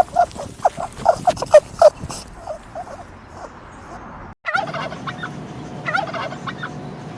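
Farm bird calls: a fast rattling run of short notes in the first two seconds that fades out. After a break about four and a half seconds in, more bursts of calls come over a steady tone.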